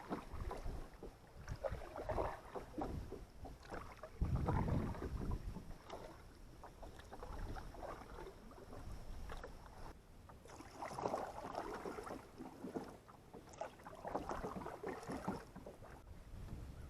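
Canoe paddle strokes: the paddle dipping and pulling through water, a swish and splash every two to three seconds, with a brief low rumble about four seconds in.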